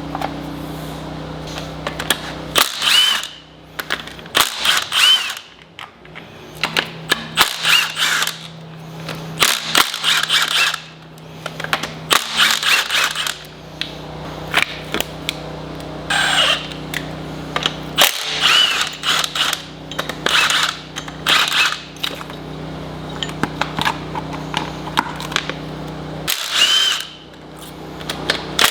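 Handheld power tool, drill-type, running in repeated short bursts of about a second, its motor whine rising and falling with each pull of the trigger, over a steady low hum.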